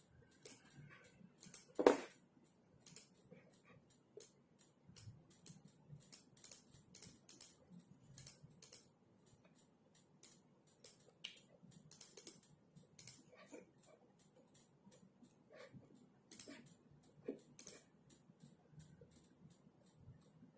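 Typing on a computer keyboard: a run of irregular keystroke clicks, with one louder knock about two seconds in.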